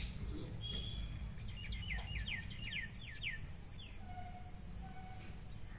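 A bird singing a quick run of about eight chirps, each sliding down in pitch, lasting a little under two seconds, over a steady low rumble.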